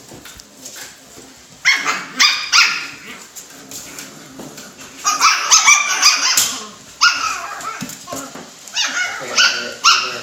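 Alaskan Klee Kai puppies yipping and whimpering in high-pitched bursts: a flurry about two seconds in, a longer one around five seconds, and another near the end.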